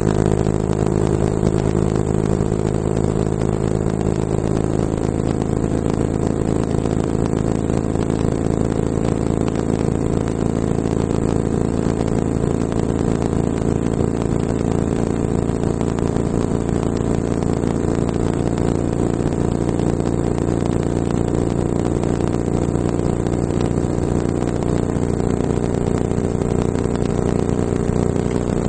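Cerwin Vega Vmax 12.4 12-inch subwoofer playing a loud, steady low bass tone at high excursion. Its character shifts slightly about four seconds in and again near the end.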